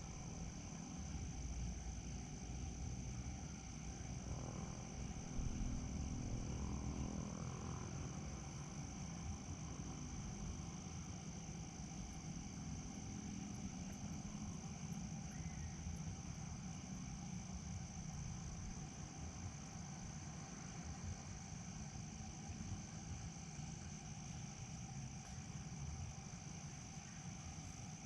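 Outdoor ambience of crickets chirring, a steady high-pitched drone, over a continuous low rumble.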